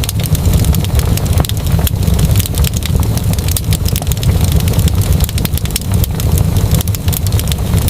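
Wood fire burning with a steady low rumble and many small, irregular crackles and pops.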